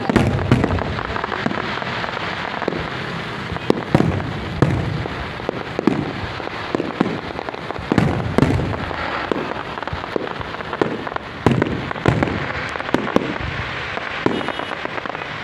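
Fireworks going off: a string of loud bangs at irregular gaps of half a second to a few seconds, each trailing off in a short rumble, over a steady noisy background of many small pops.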